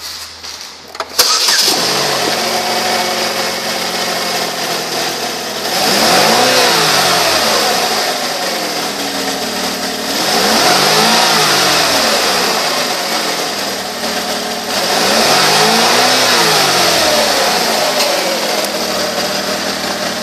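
2006 Pontiac G6 engine starting about a second in, then idling. It is revved three times, each rev rising and falling back to idle over a couple of seconds.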